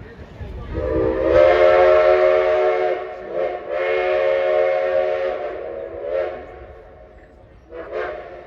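Steam locomotive chime whistle blowing: two long blasts of a steady several-note chord, then shorter, fainter toots.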